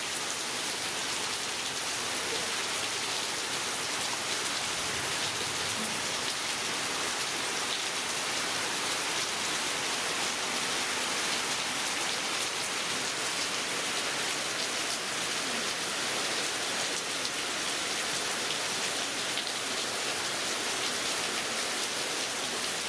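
Heavy rain falling steadily, an even hiss of drops on the surfaces around.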